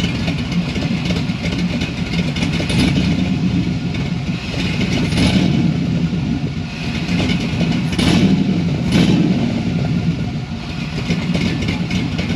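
Pontiac Trans Am's engine idling steadily at about 650 to 700 rpm, warmed up and running in closed loop on its new tune. A few brief swells come about five, eight and nine seconds in.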